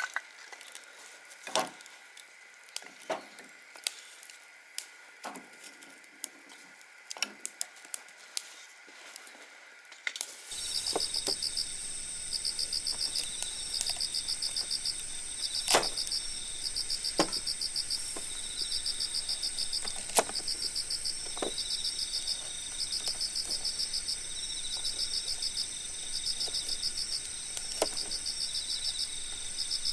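Campfire wood crackling with sharp pops. About ten seconds in, a steady pulsing cricket chirping cuts in abruptly and carries on under the pops; it is a layered-in sound effect.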